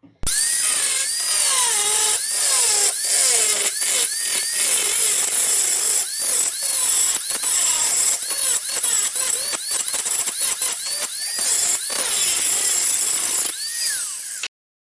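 Electric grinder with an abrasive cut-off wheel cutting steel, loud and hissing. Its motor pitch keeps rising and falling as the wheel bites and frees, and it stops abruptly near the end.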